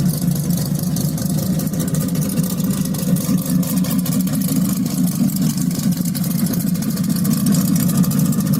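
Car engine running steadily and loudly, with a rapid even firing pulse throughout.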